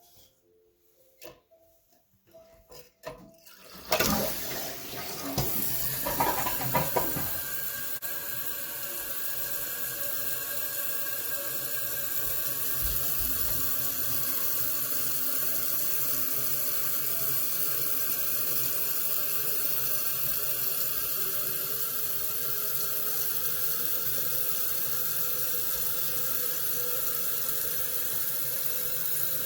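A few faint knocks, then about four seconds in a toilet is flushed with a burst of rushing water. The tank then refills through the fill valve with a steady hiss.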